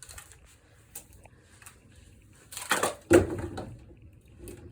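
Hollow plastic duck decoys hanging by their lines, knocking and rattling against each other as they are handled, with a few light clicks and one sharp knock about three seconds in.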